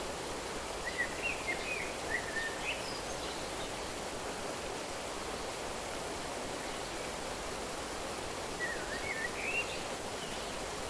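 Steady rushing of a flowing stream, with a small bird singing two short bursts of quick chirps that rise and fall in pitch, about a second in and again near the end.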